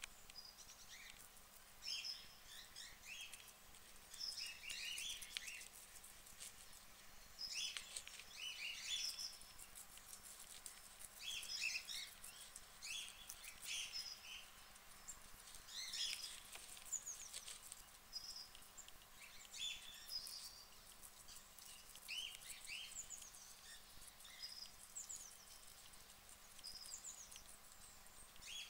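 Guinea pigs chewing lettuce: faint, crisp crunching in short bouts every couple of seconds.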